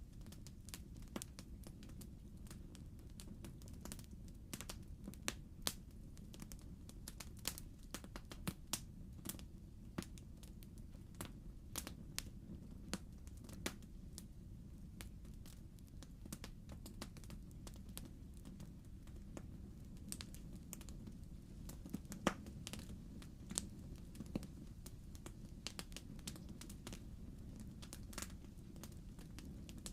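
Wood burning in a fireplace, crackling: irregular sharp pops and snaps of the logs over a steady low rush of the fire.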